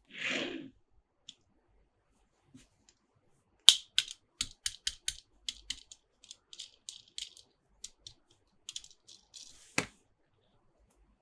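Hands tapping and handling Monster Jam toy trucks and playset pieces: a brief rustle at the start, then from about four seconds in a run of irregular light clicks and taps, ending with one louder click.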